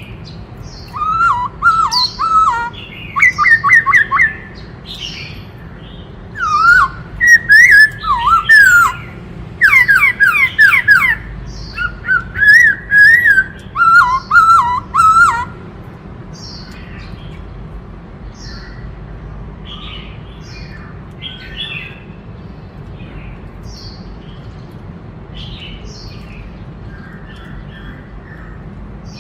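Black-throated laughingthrush singing: a series of loud, rapid whistled phrases that swoop up and down, ending about halfway through, followed by softer, scattered calls.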